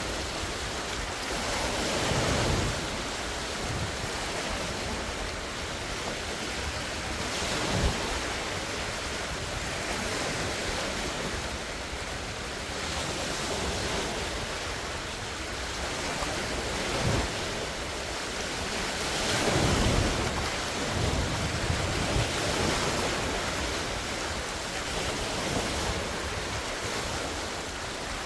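Large wind-driven lake waves breaking and washing ashore in a continuous rush, swelling every few seconds, with wind buffeting the phone's microphone and a few low thumps from the gusts or breaking waves.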